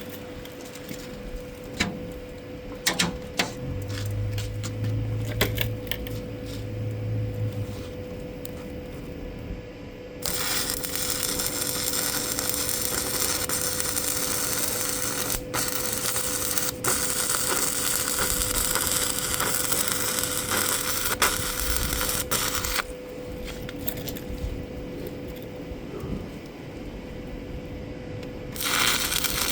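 Stick-welding arc crackling and hissing steadily for about twelve seconds from about a third of the way in, stopping, then striking again near the end. Before it there are scattered clicks and taps, and a steady whine runs underneath throughout.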